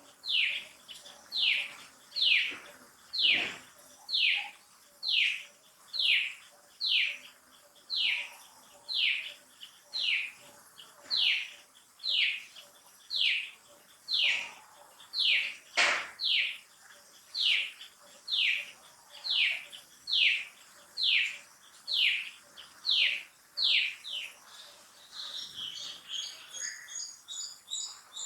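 Baby macaque crying: a long, evenly spaced series of high, falling cries, nearly two a second. Near the end the cries break up into shorter, higher chirps, and a single sharp click cuts in about halfway through.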